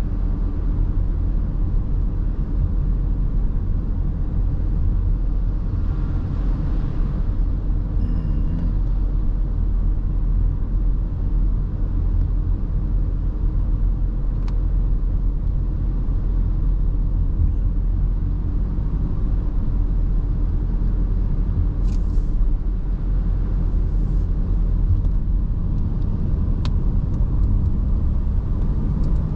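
Car on the road, its engine and tyres giving a steady low rumble, with a few faint clicks late on.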